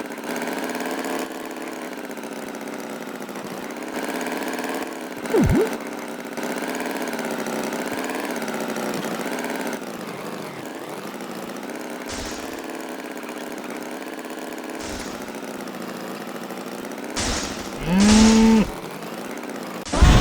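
An engine running steadily with a slightly wavering drone, with a short sharp sound about five seconds in. Near the end a cow moos once, the loudest sound here.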